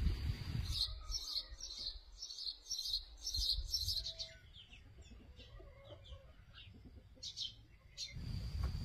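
Birds chirping: a quick run of short, high peeps for about three seconds, then sparser and fainter ones. Low wind rumble on the microphone at the very start and again near the end.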